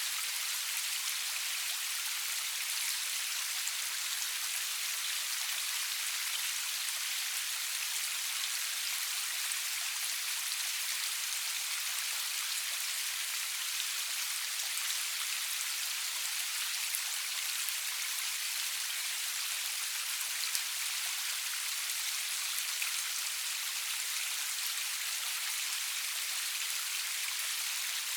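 Steady rain falling, a constant high hiss of many drops with a few faint individual drop taps, no thunder.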